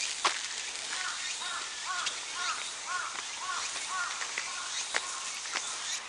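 A bird calling a run of about eight short rise-and-fall notes, roughly two a second, over a steady outdoor hiss, with a few sharp footstep clicks on the stone path.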